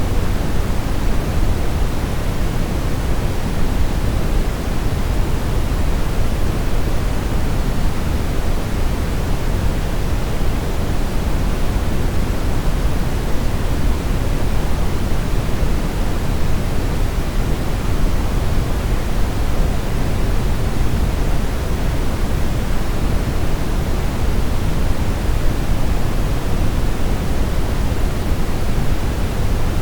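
Steady synthetic brown noise: a constant deep rumbling hiss, heaviest in the bass and fading toward the treble, without change.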